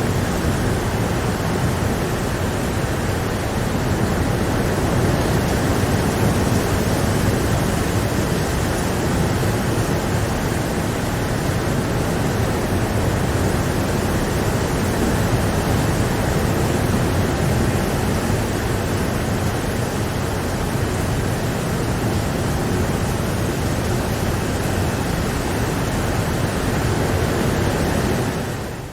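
Steady, heavy rainfall: an even, dense hiss with no separate drops standing out. Near the end it fades briefly and comes back a little quieter.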